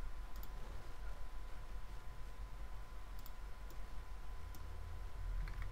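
A few sparse, faint clicks of a computer mouse and keyboard being worked, over a steady low electrical hum.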